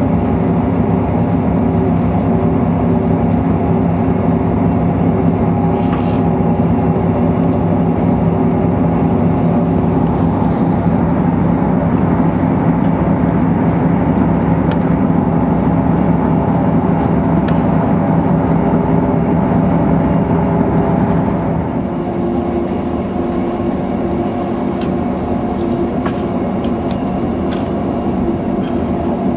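Diesel passenger train running at speed, heard from inside the carriage: a steady engine drone over rail and wheel noise, with a few faint clicks. About two-thirds of the way through, the engine note changes and the sound gets a little quieter.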